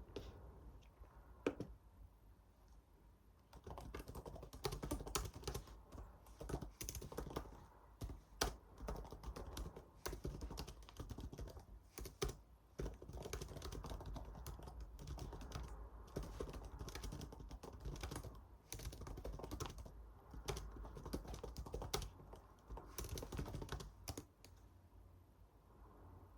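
Typing on a computer keyboard: a few single key clicks, then a long, irregular run of keystrokes starting about three and a half seconds in and stopping shortly before the end.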